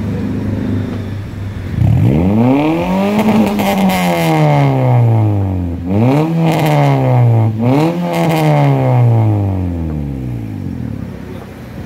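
Vehicle engine revved through an aftermarket racing exhaust: one long rev that rises and slowly falls, then two quicker throttle blips, settling back toward idle.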